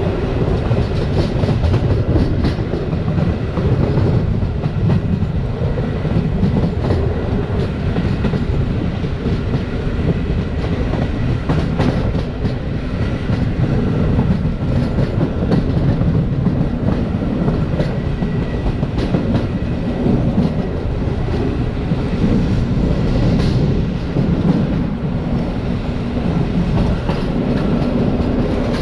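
Passenger train running at speed, heard from on board: a steady low rumble of the wheels on the rails, with irregular clicks and knocks as the wheels pass over rail joints.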